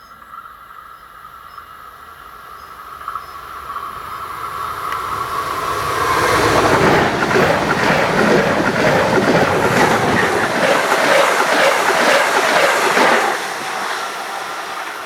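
A train approaching and passing close by on the line. A high whine builds and drops in pitch as the train arrives about six seconds in. Then comes a loud rush of wheels and rapid clatter over the rail for about seven seconds before it eases off.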